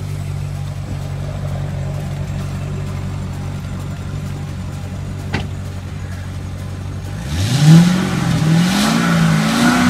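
Chevrolet Corvette V8 idling with a steady low rumble. A car door shuts with a short click about five seconds in, and then the engine is revved up and down three times near the end.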